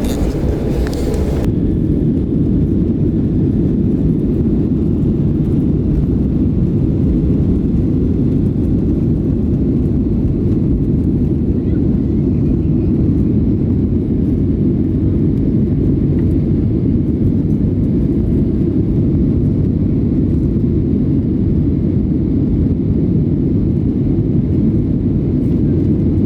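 Steady low rumble of an airliner's jet engines heard inside the cabin at takeoff.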